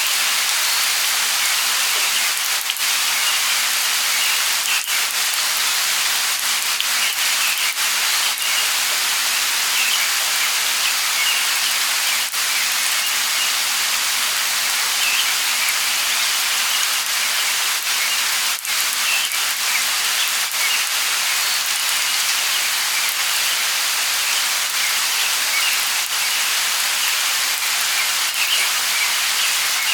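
Light rain falling steadily, an even hiss with scattered drips.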